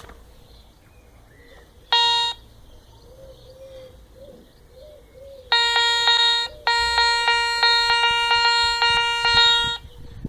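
Garrett Ace 200i metal detector giving its target tone over a pound coin: a short buzzy beep about two seconds in, then a longer stretch of repeated beeps at the same pitch for about four seconds.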